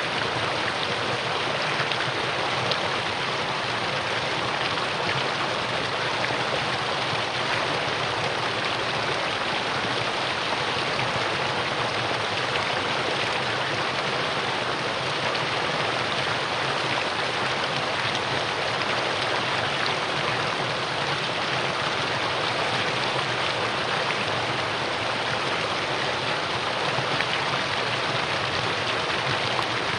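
Mountain valley stream flowing, a steady, unchanging rush of water.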